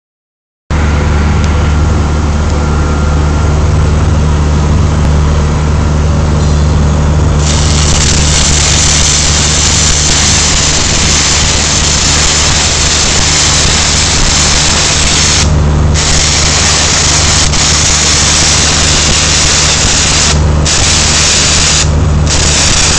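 A Miller welding machine running with a steady low hum; about seven seconds in, a 1/8 inch 6010 stick-welding arc at about 120–125 amps strikes and keeps up a loud crackling hiss, cutting out briefly three times near the end as the arc breaks and is restruck.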